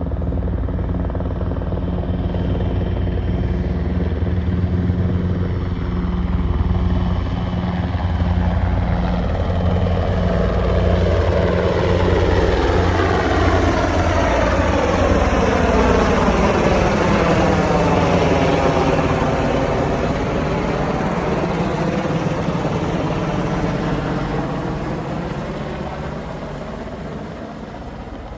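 US Army UH-60 Black Hawk helicopters flying over, the rotor thud and turbine whine swelling as they pass close and then fading away near the end.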